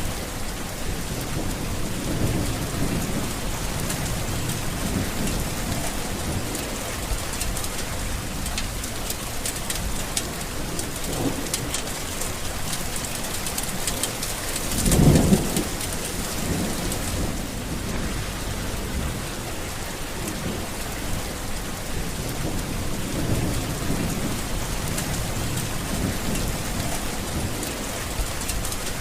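Steady heavy rain falling on surfaces during a thunderstorm, with low thunder rumbling on and off and one louder, sharper thunder crack about halfway through.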